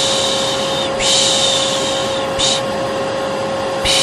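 Vacuum cleaner running steadily under a person's repeated 'shh' shushing. The hisses last about a second each, with a short one near the middle, then a pause before another begins near the end.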